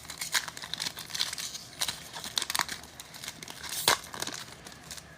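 Crinkling and rustling of a trading-card pack's wrapper as it is torn open and handled, with scattered light clicks and one sharper click about four seconds in.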